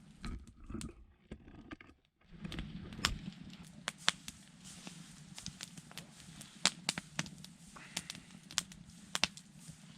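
Campfire crackling, with irregular sharp pops over a low steady rush of burning wood.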